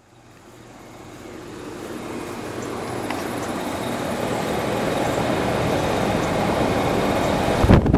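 Outdoor unit of a 1988 Trane XL1200 heat pump running in cooling mode: the reciprocating compressor's steady hum under the whoosh of the condenser fan, growing louder over the first few seconds and then holding steady. A brief low thump near the end.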